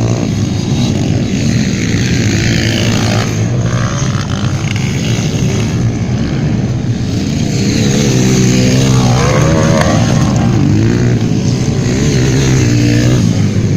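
Motocross motorcycles in the 150cc class racing, their engines running loud and steady, with revs rising and falling as they accelerate and shift.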